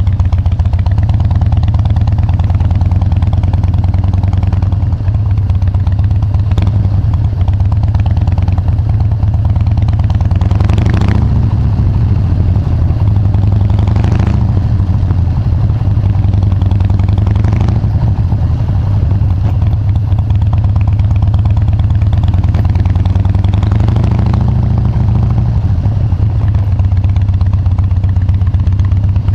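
Harley-Davidson Dyna Wide Glide's V-twin engine running through its exhaust, a steady low note with a few brief swells in between.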